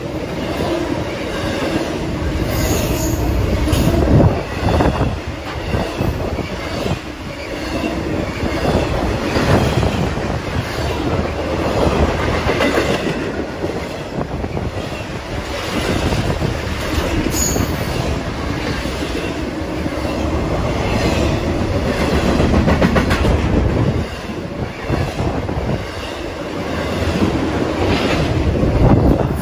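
BNSF intermodal freight train carrying empty truck trailers and shipping containers on flatcars, rolling past close by: a continuous rumble of steel wheels on rail, with repeated clicks and clunks as the wheels cross rail joints.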